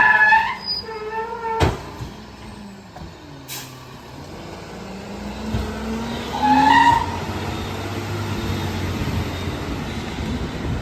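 Garbage truck's packer cycle: a high squeal at the start and two sharp metal clanks, then the engine revs up with a rising whine as the hydraulic packer compacts the recycling, ending in a steady run.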